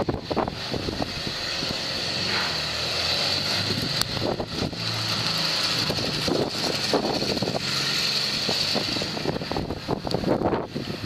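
1960 Volkswagen Beetle's air-cooled flat-four engine running as the car slides through snow, its pitch rising and falling with the throttle, with wind noise on the microphone.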